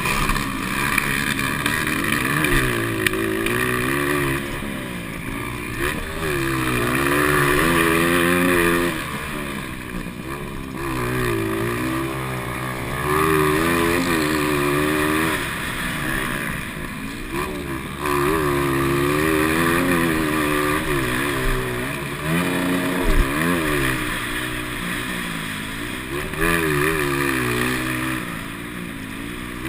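200cc-class motocross motorcycle engines racing, rising and falling in pitch again and again as riders open the throttle, shift and back off.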